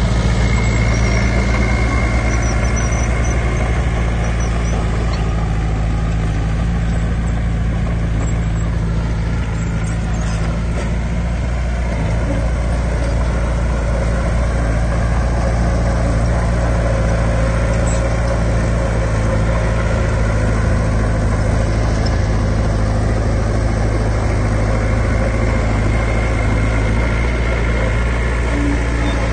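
Heavy diesel engine of earthmoving machinery running steadily, a deep drone that barely changes in loudness.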